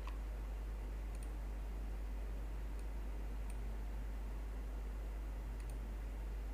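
About five faint computer mouse clicks, irregularly spaced, over a steady low electrical hum and hiss.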